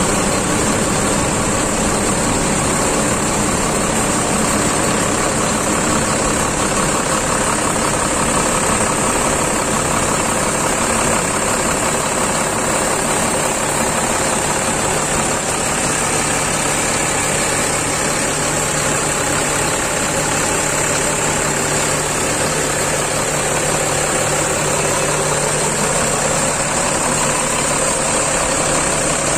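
Bus diesel engine idling steadily, heard close up, with a steady high-pitched whine over it; a low steady hum joins about halfway through.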